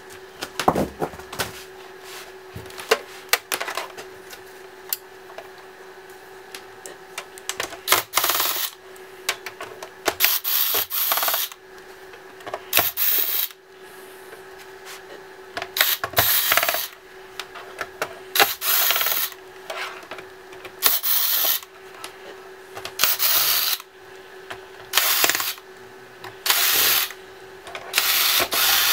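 Tools working on a laptop's plastic casing: scattered clicks and taps, then from about a third of the way in, short rasping strokes repeating every two to three seconds. A faint steady hum runs underneath.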